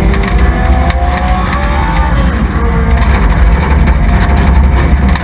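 Race truck engine running steadily and loud, heard up close from a camera mounted on the truck.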